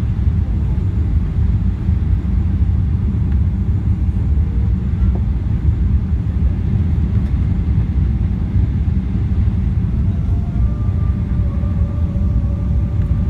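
Steady low rumble of a Boeing 777 airliner's engines and airflow heard from inside the cabin during landing.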